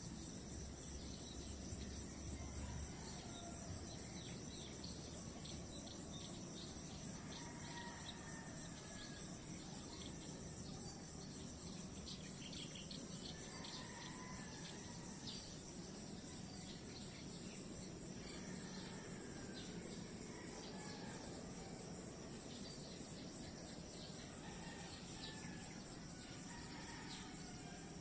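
A steady, high-pitched insect chorus, with short faint calls scattered through it.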